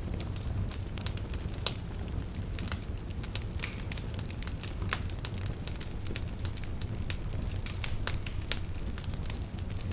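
Campfire burning steadily, with a low rumble of flame under irregular sharp crackles and pops of burning wood, one louder pop about two seconds in.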